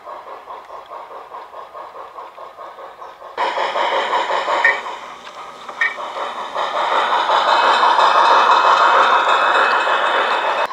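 Garden-railway model freight train running on its track: a quick, even rhythmic clatter, then a sudden louder passage about three seconds in with two short high squeaks, and a rushing noise that grows louder through the second half and cuts off abruptly at the end.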